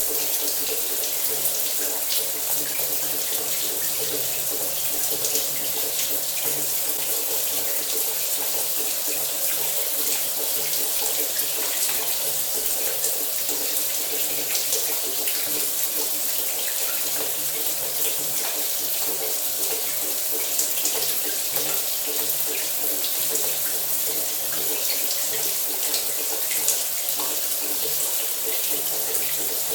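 Shower water running steadily: a constant spray hiss with the splash of water falling, no breaks or changes.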